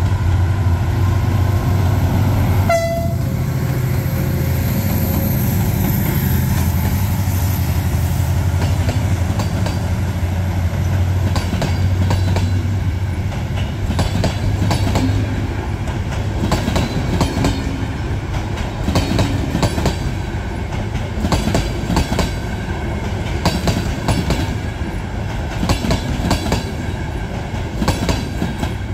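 Diesel-electric locomotives passing close with a deep engine rumble. The passenger coaches follow, clattering over the rail joints, with the clicks coming thick and uneven from about twelve seconds in.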